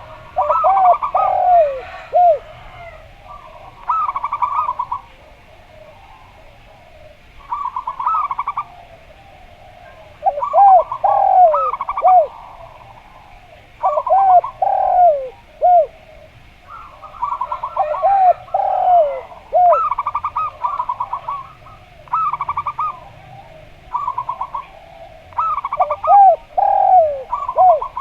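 Zebra doves (perkutut) and a derkuku dove cooing back and forth. Phrases of quick stuttering notes alternate with lower, arched, swooping coos, repeated in bouts every second or two with short pauses.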